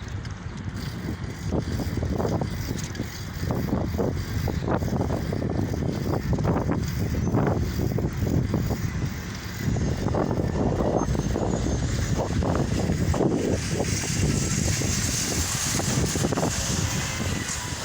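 Wind buffeting the microphone, with road rumble and irregular rattling knocks from a lowrider bicycle being ridden.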